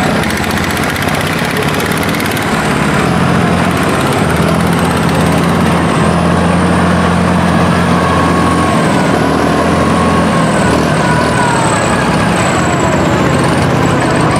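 Tractor engine running steadily under load, loud and continuous.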